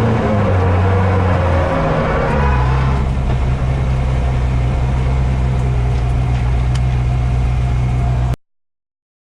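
Vehicle engine running at steady revs, its pitch dropping about two seconds in; the sound cuts off suddenly near the end.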